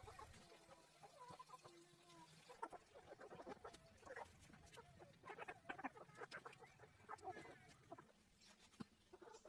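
Chickens clucking faintly, a scatter of short calls coming thick and irregular from about two and a half seconds in.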